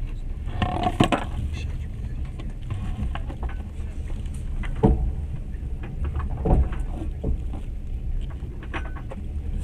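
Steady low rumble of a moving train carriage, with a few sharp knocks and a brief bit of faint talk near the start.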